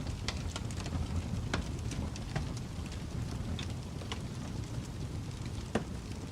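Wood fire in a fireplace crackling over a steady low rumble, with scattered sharp pops; the loudest come about a second and a half in and near the end.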